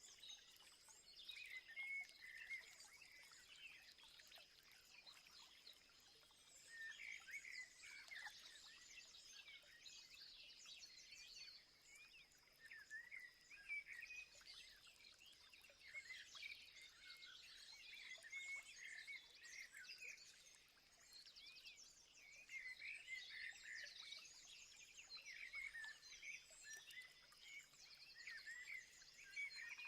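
Faint outdoor chorus of many small birds chirping and twittering, their calls overlapping, with a steady high-pitched tone running underneath.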